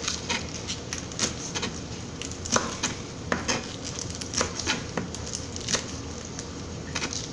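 Knife chopping a vegetable on a cutting board: irregular sharp knocks, a few each second.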